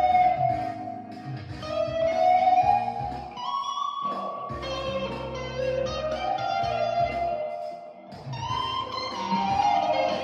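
Guitar music: notes that slide and bend up and down over a low bass line, with short breaks about four and eight seconds in.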